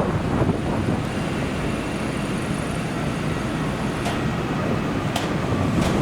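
Strong wind buffeting the microphone, with the faint, steady high whine of a jet airliner's engines underneath that stops about four seconds in. A few sharp clicks come near the end.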